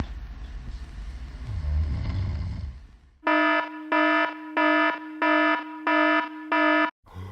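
Low snoring for about three seconds, then an electronic alarm clock beeping six times, about one and a half buzzy beeps a second, cut off abruptly near the end.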